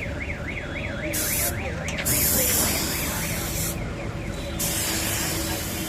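Compressed-air spray gun hissing in bursts that start and stop sharply. In the first two seconds a warbling electronic alarm tone, rising and falling about four times a second, sounds alongside it, then stops.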